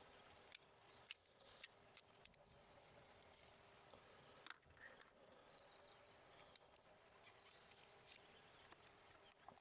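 Near silence: faint outdoor ambience with a few scattered small clicks and knocks and two brief high chirps.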